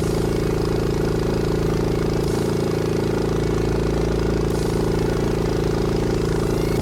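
An engine running at a steady, even speed.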